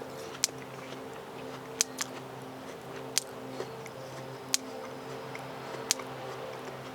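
A person chewing a bite of a crisp, dense Haralson apple: sharp crunches about once a second over a steady low hum.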